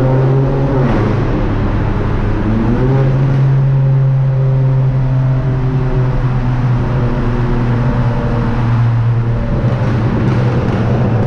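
Car engine and exhaust droning while driving. The pitch falls in the first second and climbs again about two and a half seconds in, then holds steady.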